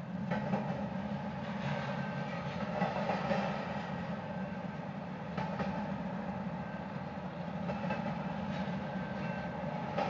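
Double-stack intermodal freight train's container-laden well cars rolling past: a steady rumble of steel wheels on rail with scattered faint clicks.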